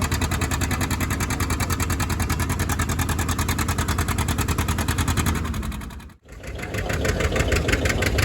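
An engine running steadily with an even pulse of about ten beats a second. About six seconds in it fades briefly to near silence, then comes back in.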